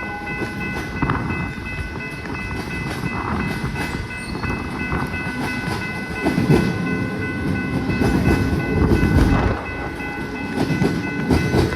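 Suburban electric train passing over a level crossing, its wheels clattering and rumbling loudest about six and nine seconds in. The crossing's electronic bells ring steadily under it, and wind buffets the microphone.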